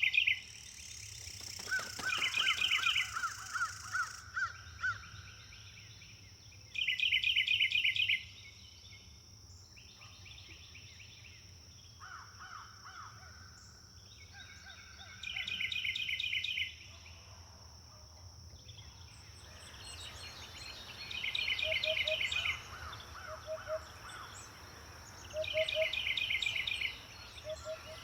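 Outdoor bird calls: loud, rapid high trills lasting about a second come in bursts every few seconds. In the second half, short low 'oop-oop' notes repeat every second or two, as a hoopoe calls. A steady high whine runs underneath.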